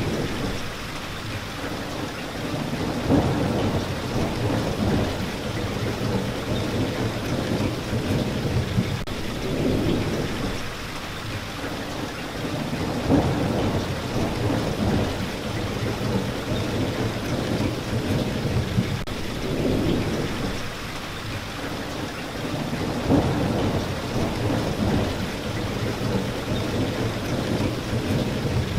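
Steady rain falling, with a low rumbling that swells and fades every few seconds.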